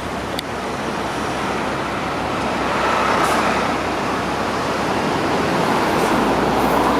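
Road traffic at a busy city intersection: a steady noise of passing vehicles that grows a little louder about three seconds in, with a brief click about half a second in.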